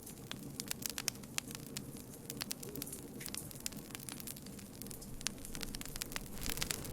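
Campfire burning with irregular sharp crackles and pops from the wood, over a low steady rush of flame.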